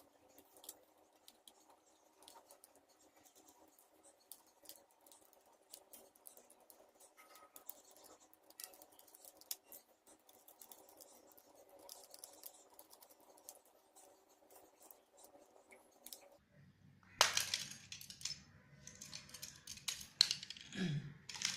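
Faint clicks and scratches of a screwdriver working the screws and plastic casing of a cordless hair trimmer as it is taken apart, with louder plastic clicking and scraping in the last few seconds as the case comes open.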